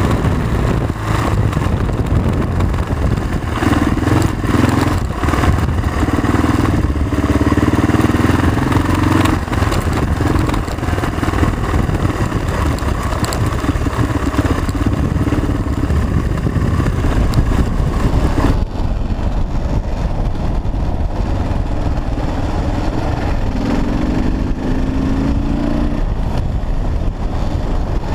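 Kawasaki KLR650 dual-sport motorcycle's single-cylinder four-stroke engine running under way on a rough dirt road, its revs rising and falling, with scattered knocks and rattles. About two-thirds of the way through, the sound turns duller.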